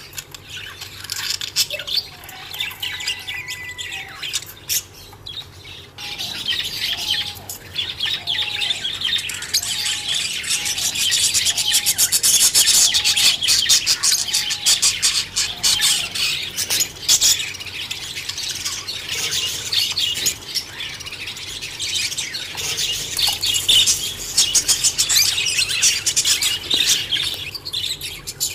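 A flock of budgerigars chattering and chirping continuously, louder and busier from about six seconds in, with a short repeated call note about once a second for some ten seconds.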